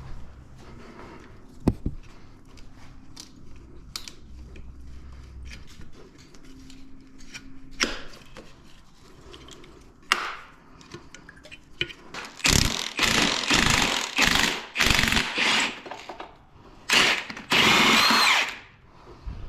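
A handheld power tool run in several bursts of about a second each, the last one longest with a whine, as bolts are worked on a dirt bike. Before that, faint clicks and knocks of tools being handled.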